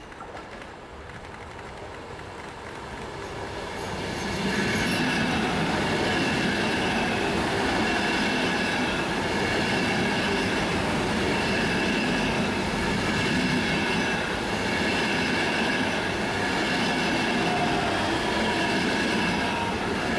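Electric express passenger train running through a station at speed, growing louder over the first four seconds as it approaches. It then passes close by as a steady rush of wheels on rails, with a high whine that swells about every two seconds as the cars go by.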